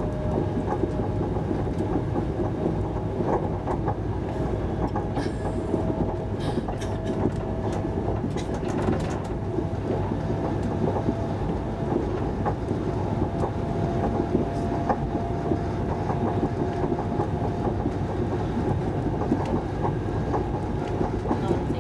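Interior running noise of an SJ 3000 (X55) electric multiple-unit train at speed: a steady rumble from the wheels and bogies, with a faint whine that slowly rises a little in pitch. A few light clicks come between about five and nine seconds in.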